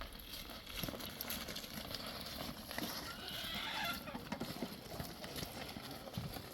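An animal calling once for about a second, starting about three seconds in, over scattered light clicks and shuffling.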